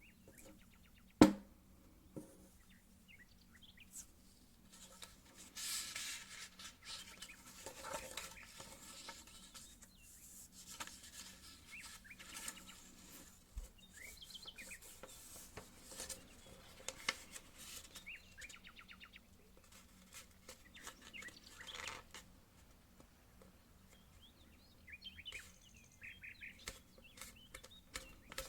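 A sheet of paper being folded and creased by hand into an origami plane: rustling and crinkling in short spells, with a sharp tap about a second in.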